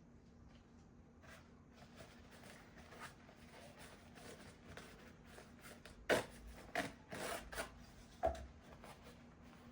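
Quiet household handling sounds: soft rustling and rubbing, with a few light knocks a little after six seconds in and again near eight seconds.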